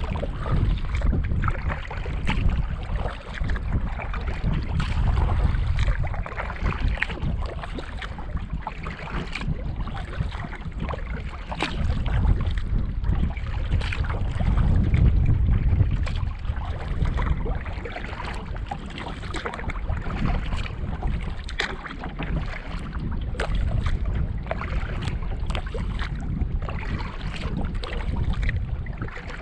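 Wind rumbling on the microphone, swelling and easing, over water splashing and many small knocks and taps around a canoe at the water's edge.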